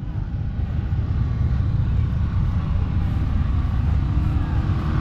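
Mega truck engines running, a dense low rumble that grows louder over the first couple of seconds and then holds steady.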